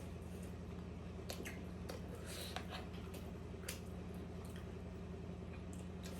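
Close-up eating sounds of someone chewing momo: scattered wet mouth clicks and squishy smacks, over a steady low hum.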